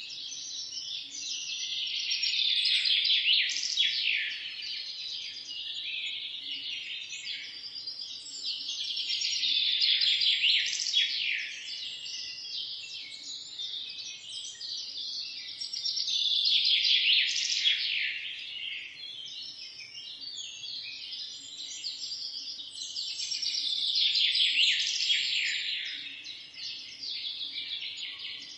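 A dense chorus of many small birds chirping and twittering at once, swelling louder and fading back about every seven seconds.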